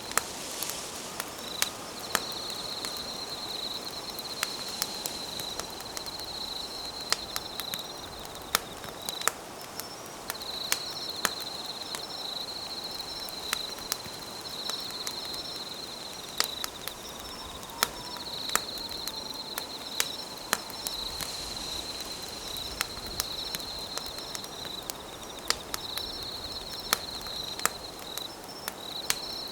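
Campfire crackling, with sharp irregular pops, over a chorus of insects trilling at a high pitch in runs of a few seconds broken by short pauses.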